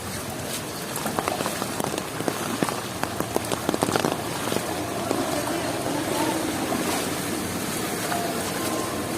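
Heavy monsoon-cyclone rain falling, an even hiss with a run of sharp drop clicks in the first few seconds.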